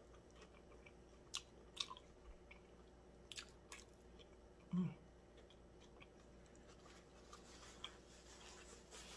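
Quiet close-up chewing of a bite of steak and cheese sub, with a few sharp wet mouth clicks and smacks and one short low throat sound about halfway through.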